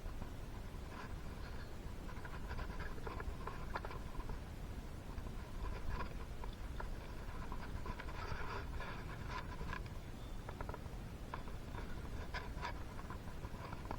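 Soft rubbing, scraping and light clicks from small engine parts and hand tools being handled while a two-stroke piston is fitted, with a low hum underneath.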